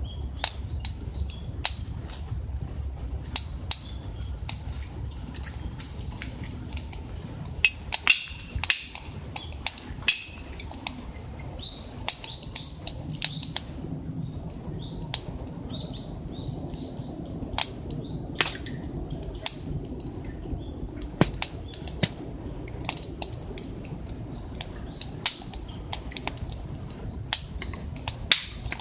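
Wood fire burning in a camp stove: irregular crackles and sharp pops over a low steady rush, with a cluster of louder pops about a third of the way in.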